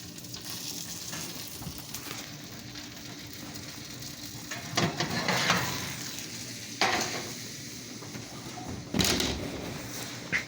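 Sausages sizzling steadily in a hot pan, with a few sharp clatters of a utensil against the pan about halfway through and near the end.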